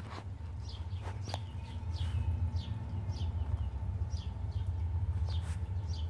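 Small birds chirping: short, high chirps that fall in pitch, about two a second, over a steady low rumble.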